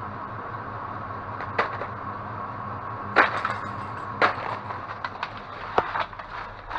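Scattered knocks and clatters, about four of them, as packaged bird toys and other discarded store goods are handled and shifted around in a dumpster. A steady hum runs underneath.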